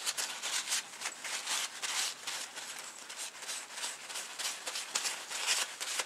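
Paper towel rubbing and dabbing over a small Hydrostone cast piece to dry it: a run of quick, scratchy rustles.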